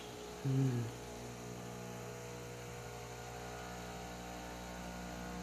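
Miele built-in coffee machine running as it makes the espresso for a cappuccino: a steady hum, with one short, louder low sound about half a second in.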